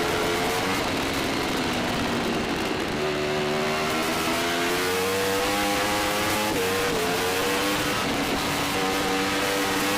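Yamaha R1 superbike's inline-four engine at racing revs, heard from the bike. Its pitch climbs for a few seconds, drops sharply at an upshift a little past halfway, then climbs again and levels off.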